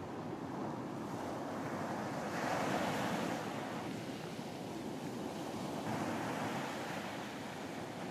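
Ocean waves washing onto a beach, one wave swelling up and breaking about two and a half seconds in and a smaller one near the end, with some wind.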